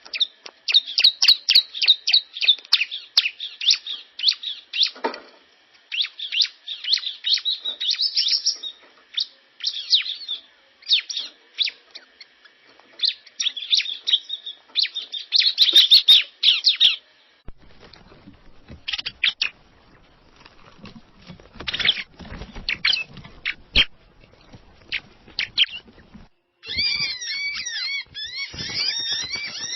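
Cinereous tits (gelatik batu) chirping and calling rapidly and excitedly, many short high notes packed together. Partway through, the calls thin out over a low rumble, then a fast run of repeated, rising-and-falling calls starts near the end.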